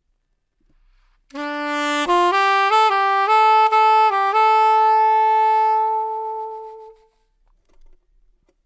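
A short solo wind-instrument melody: a low opening note, a few quick notes stepping up and down, then one long held note that fades out.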